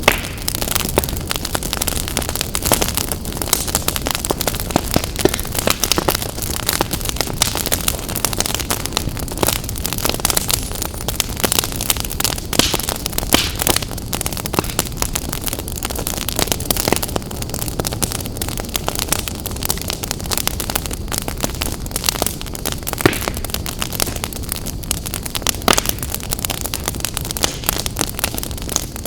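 Wood fire burning in a fireplace, crackling and popping constantly at irregular intervals over a steady hiss.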